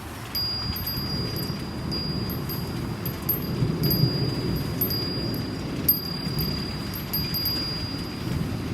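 Steady rain from a storm, with a Japanese wind chime ringing a single high tone, struck again and again from just after the start.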